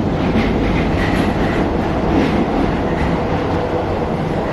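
Steady, loud rumbling and rattling of a moving vehicle, with faint high squeals now and then.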